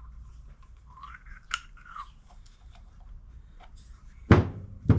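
Brake wheel cylinder parts being handled at a workbench: light clicks and scrapes, then two loud knocks, one about four seconds in and one at the very end.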